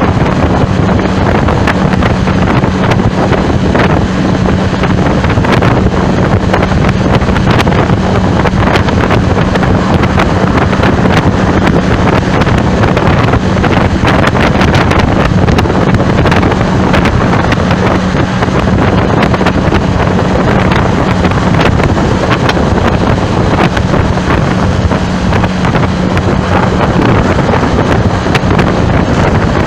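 Loud, steady wind buffeting the microphone, over a constant low hum.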